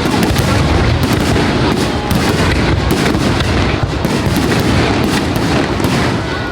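Fireworks display: a dense, continuous barrage of overlapping booms and crackling bursts.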